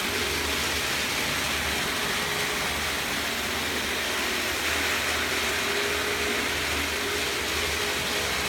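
TT scale model train running on its layout: a steady whir from the small electric motor and the wheels on the track, with a faint thin whine that comes and goes.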